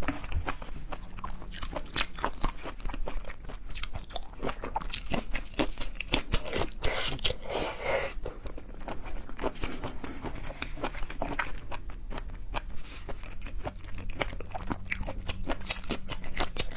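Close-miked eating of seafood: a steady run of crunching bites and wet chewing, with a denser, louder stretch of crunching about halfway through.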